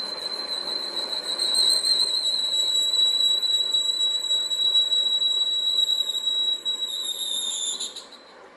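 High-pitched steady whine of a machine working metal, with a hiss of cutting noise under it. The pitch sags slightly near the end and the whine stops about eight seconds in.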